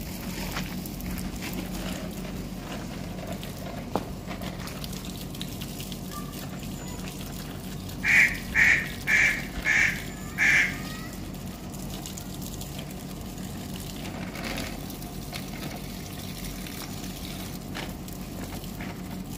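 A bird calling five times in quick succession about eight seconds in, about two calls a second, over a steady hiss of water spraying from a garden hose.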